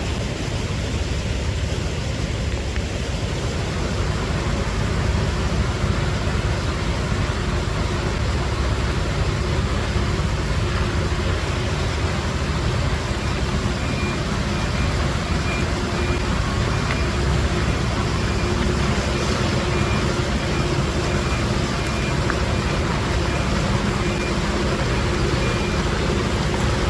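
Construction machinery running steadily with a low rumble. From about halfway, an even series of high beeps repeats until near the end, like a reversing alarm.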